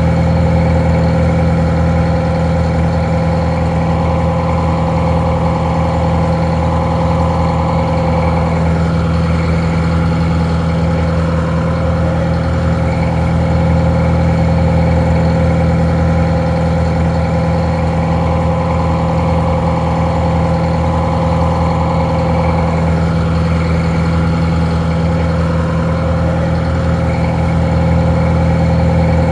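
Detroit Diesel 4-71 inline four-cylinder two-stroke diesel engine idling steadily, a low, even drone that sounds a little muffled.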